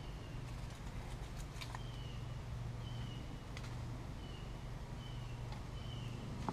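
A bird calling over and over, short slightly falling high notes roughly once a second, over a steady low hum, with a few sharp clicks in between.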